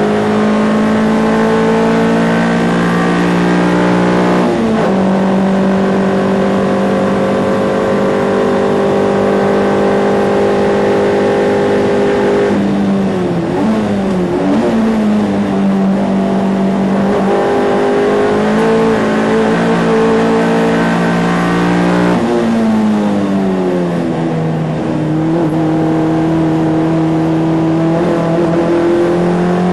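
Ford Fiesta race car's engine heard from inside the car, running hard at high revs. Its pitch drops sharply about four seconds in, dips and climbs back near the middle, and falls again about two-thirds of the way through before holding steady.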